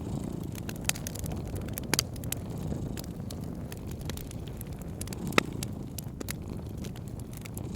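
Fireplace crackling with scattered sharp pops, the loudest about five seconds in, over a cat's steady low purr.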